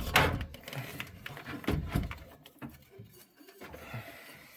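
A run of knocks, clunks and scrapes from oil-boiler parts being handled and removed during servicing. The noises are loudest in the first two seconds or so, then turn fainter and sparser.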